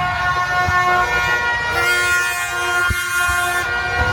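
Several horns blowing long, overlapping held tones at different pitches, with one set giving way to another about two seconds in, over a low steady background rumble.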